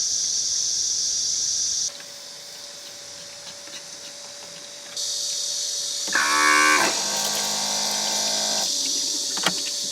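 A cow mooing once about six seconds in, a long call that bends in pitch and then holds steady. Behind it is a steady high hiss that stops about two seconds in and comes back about five seconds in.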